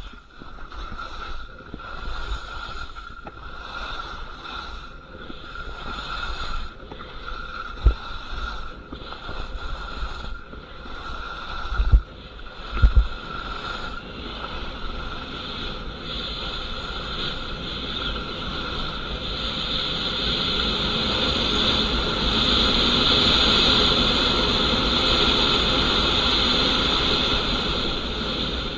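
Skis scraping and chattering over icy, rock-hard snow on a very steep slope, with a rhythmic rasp at each quick turn. There are three heavy thumps in the middle, and a rushing noise builds through the second half as speed and wind on the microphone rise.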